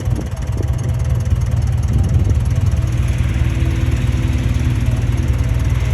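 Heavy diesel engine of earthmoving machinery running steadily with a deep, pulsing low rumble, a higher hiss joining in about halfway through.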